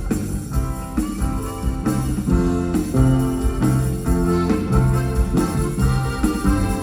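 Live band playing an instrumental passage of a Latin song: a run of short melodic notes over a steady bass line, with no singing.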